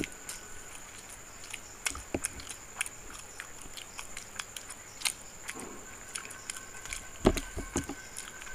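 Two people chewing and biting into fried chicken momos, which are a bit tough and need real chewing, with scattered short wet mouth clicks. A low thump about seven seconds in is the loudest sound.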